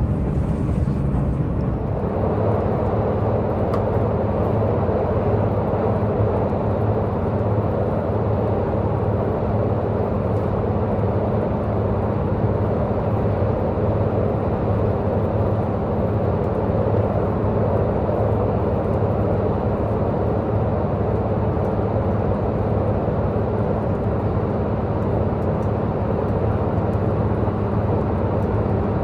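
A diesel multiple-unit express train's diesel engine running steadily under load, with a low hum, mixed with steady wheel and rail running noise, heard from inside the passenger car. About two seconds in, the running noise grows fuller and then holds steady.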